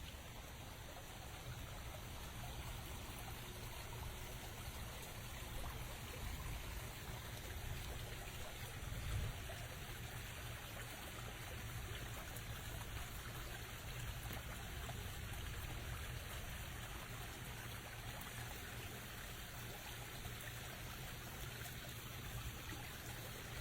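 Steady rain falling, an even, continuous wash of water sound with a brief swell about nine seconds in.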